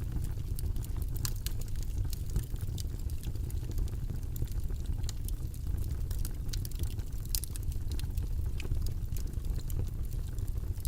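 Steady deep rumbling noise, like a brown-noise study background, with light, irregular clicks scattered over it.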